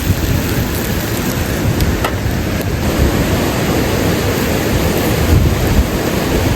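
Waterfall: a loud, steady rush of falling water with a heavy low rumble.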